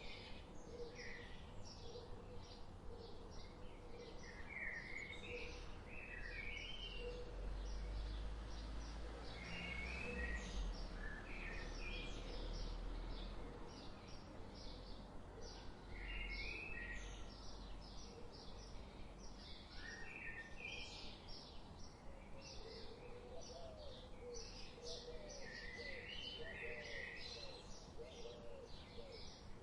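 Many songbirds singing and chirping together in a steady dawn-chorus-like ambience, with a low rumble for a few seconds about a quarter of the way in.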